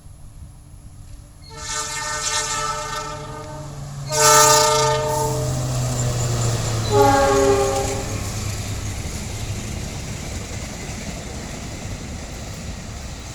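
Train locomotive horn blowing a chord in three blasts, the second one the loudest, about four seconds in, and a shorter third one about seven seconds in. A steady low rumble and rushing noise of the passing train runs under and after the horn.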